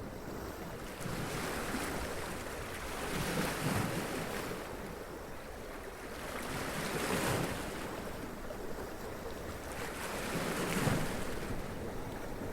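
Sea waves washing up over rocks, a steady rush of surf that swells about every three to four seconds as each wave breaks and runs up.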